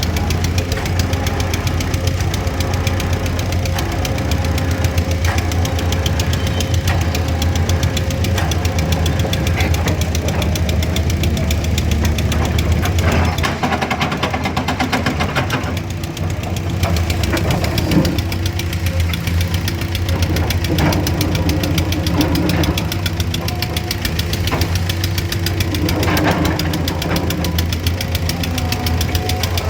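Heavy engine of road-repair machinery running steadily with a clattering note. The note shifts around the middle, and a few sharp knocks come in the second half.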